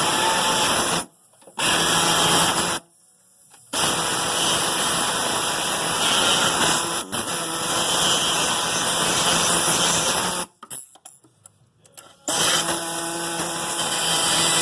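Handheld power tool running on rusted sheet metal of the Jeep's inner fender, with a steady motor hum under it. It stops briefly three times and starts again.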